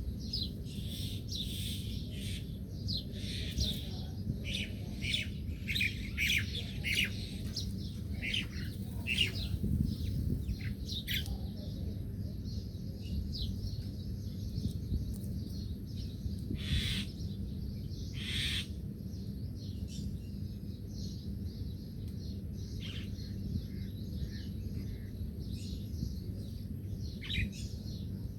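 Small birds chirping and tweeting in quick, high notes, busiest in the first half and sparser later, over a steady low rumble.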